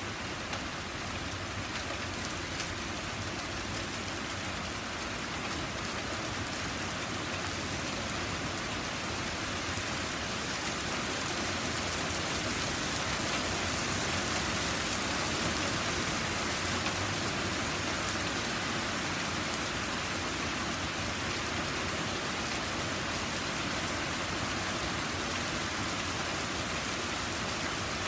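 Heavy rain falling steadily on a garden and a wooden porch deck, growing a little heavier around the middle.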